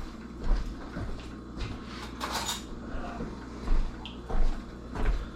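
Kitchen handling noises: a few light knocks of containers and utensils being moved and set down, with a short hiss about two seconds in.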